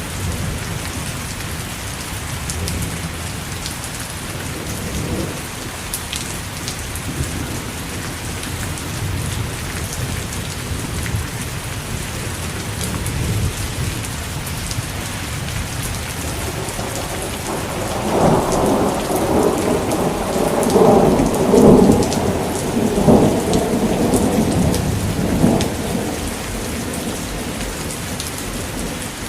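Steady rain falling, with a long rolling rumble of thunder that swells a little past the middle and lasts about eight seconds.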